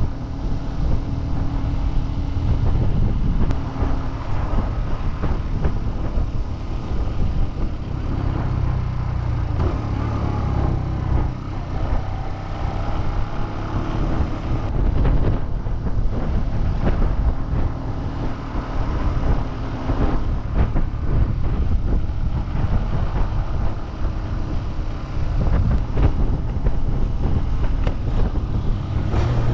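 Suzuki GN125's single-cylinder four-stroke engine running while the motorcycle is ridden, a steady low rumble mixed with road and wind noise, its pitch shifting now and then with the throttle.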